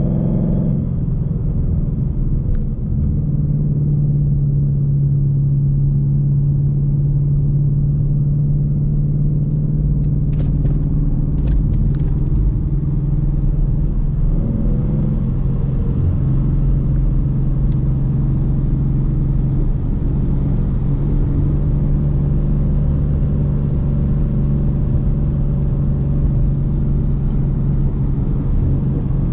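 Car engine and exhaust running steadily at a constant low engine speed while driving, with a low road rumble.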